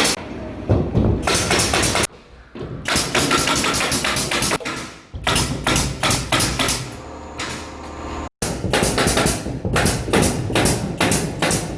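Carpentry and construction work noise: a dense run of sharp knocks and clatter, like fastening and hammering, that breaks off abruptly twice.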